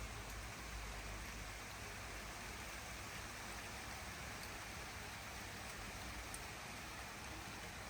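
Steady rain falling, an even hiss with a few faint drop ticks and a low rumble underneath.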